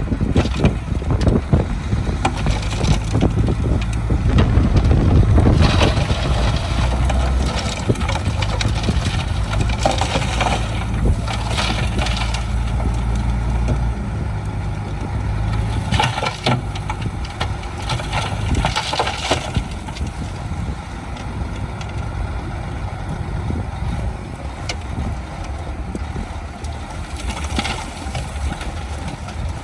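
Heavy diesel construction machinery working on earthworks: a deep engine running hard through the first half, then easing, with intermittent clanks and scraping of soil.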